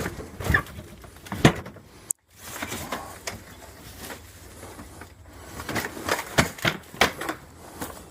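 Irregular knocks, thumps and clatter of junk being moved and handled inside a storage shed. The sound cuts out suddenly for a moment about two seconds in.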